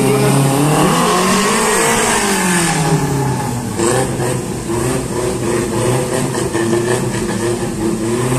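Car engine revving through a slalom run: the pitch climbs and falls back in the first few seconds, then holds steadier with smaller rises and dips.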